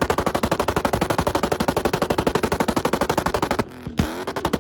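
A fast, even rattle of sharp bangs, many a second, that stops abruptly about three and a half seconds in.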